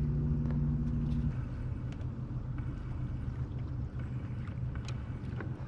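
Boat motor running with a steady pitched hum that drops about a second in to a lower, rougher rumble, with a few faint clicks over it.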